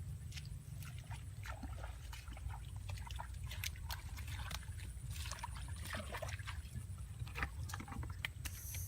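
Water sloshing and splashing, with many scattered small clicks and knocks over a steady low rumble.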